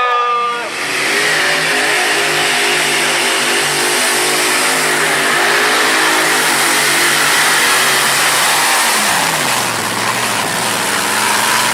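Tractor-pulling machine's engine running flat out under load with a strong hiss above it. About nine seconds in the pitch drops and settles lower as the engine slows, and the sound cuts off abruptly at the end.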